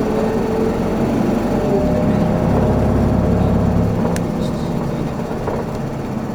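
Isuzu Erga city bus's four-cylinder turbodiesel and drivetrain running, heard from inside the cabin. The engine note grows fuller between about two and four seconds in, then eases off.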